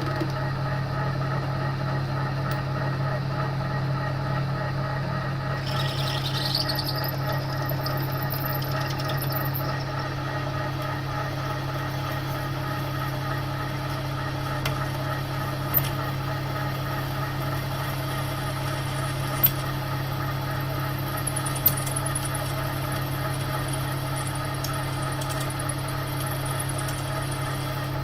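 TOS milling machine running steadily while a carbide drill bit cuts into a snapped stainless steel exhaust stud, which is hard to drill. A high squeal from the cut comes about six seconds in and lasts a few seconds. A few sharp ticks follow later.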